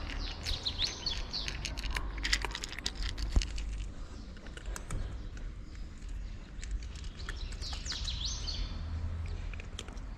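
Small birds chirping in quick runs of high notes, once about a second in and again near the end, over a steady low outdoor rumble, with scattered sharp clicks in the first few seconds.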